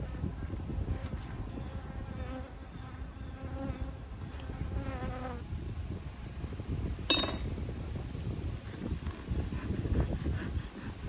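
Honeybees buzzing at an open hive, with one bee flying close to the microphone for a few seconds as a steady hum. A single sharp click comes about seven seconds in.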